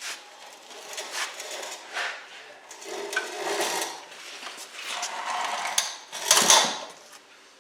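Irregular metal clanks, knocks and scraping of hand work on the Honda Civic's engine bay as the old engine is pulled out, with a louder scrape about six and a half seconds in.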